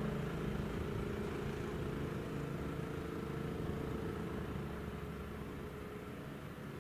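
Train running past, a steady mechanical hum with fixed tones that slowly fades as it moves away.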